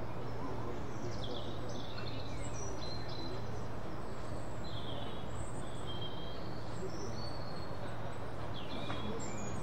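Songbirds chirping in short, repeated calls over a steady low hum and background rumble.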